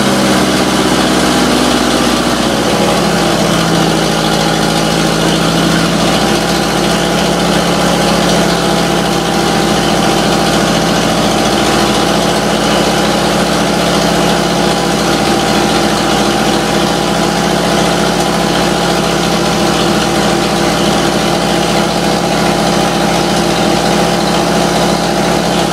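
International Harvester 504 tractor's four-cylinder gasoline engine idling just after a hard cold start, following a winter without running. Its speed shifts a little over the first few seconds, then settles into a steady idle.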